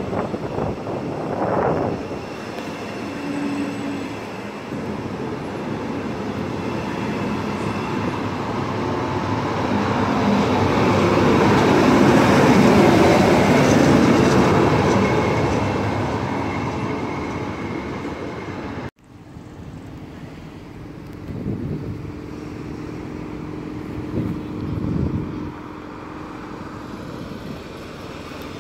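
Double-deck regional train with an electric locomotive rolling past, its wheel and running noise swelling to its loudest as the locomotive goes by and then fading. After a sudden cut about two-thirds of the way in, a city bus drives past with a steady low hum.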